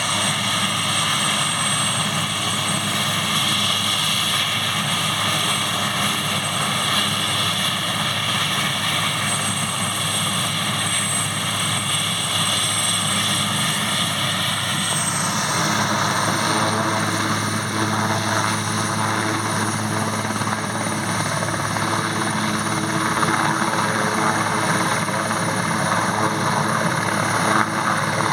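Airbus AS532AL Cougar helicopter running, its twin turboshaft engines giving a steady high whine over the rotor noise. About halfway through, the whine rises slightly in pitch.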